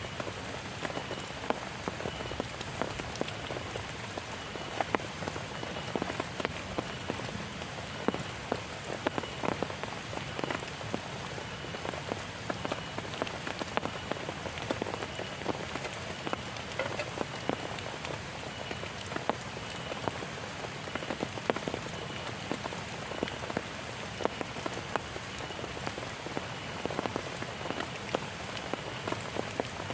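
Heavy rain falling steadily, with many individual drops striking as sharp, irregular taps. A faint high chirp repeats about once a second behind it.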